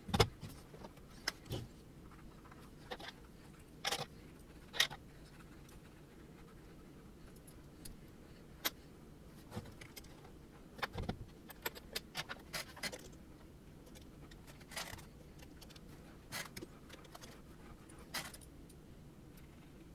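Scattered clinks and knocks of small metal parts and tools being handled while assembling a 3D printer frame. There is a loud knock right at the start and a quicker run of clicks a little past the middle, over a faint steady low hum.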